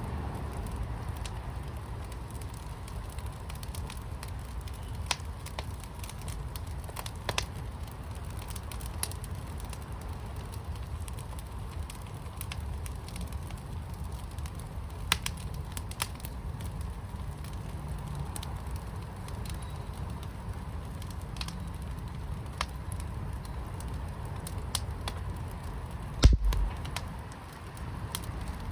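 Wood fire in a fire pit crackling, with scattered sharp pops over a steady low rumble. One heavier thump comes near the end.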